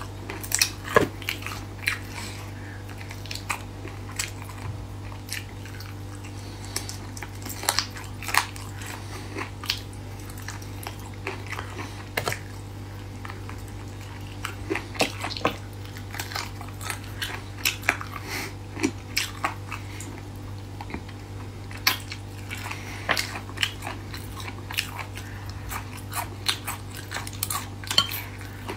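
Close mouth sounds of someone gnawing and chewing braised chicken feet: irregular small crackles and clicks of skin and cartilage being bitten, over a steady low hum.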